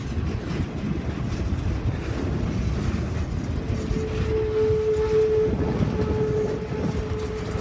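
Train rumbling past, a steady low rumble, with a single steady mid-pitched tone sounding from about halfway in for about four seconds.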